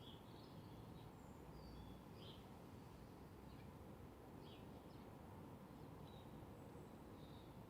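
Faint birds chirping: scattered short high calls over a steady low background noise, the whole close to silence.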